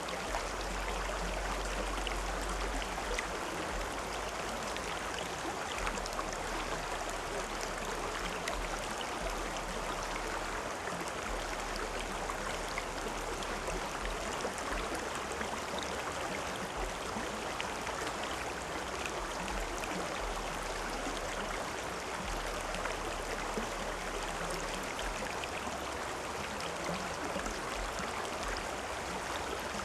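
River water flowing, a steady rush that does not change or break.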